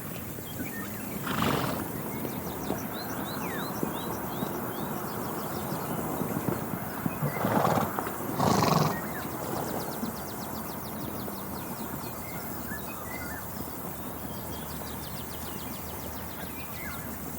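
Horse calling in three short, noisy bursts: one about a second and a half in, then two close together around seven and a half and nine seconds. Small birds chirp faintly in between.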